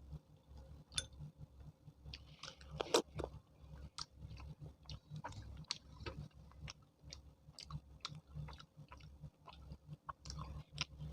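A person chewing and biting food close to the microphone, with irregular wet mouth clicks. The loudest click comes about three seconds in.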